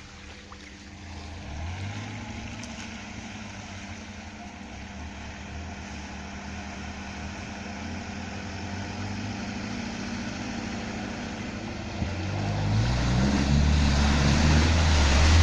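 UAZ off-road vehicle's engine running steadily at low revs. About twelve seconds in it gets louder and the revs climb, with a rushing noise over it.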